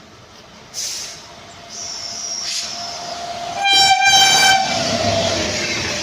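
Indian Railways train passing at high speed: a rushing noise builds up, the locomotive's horn sounds for about a second near the middle, and the loud rumble of the passing train follows.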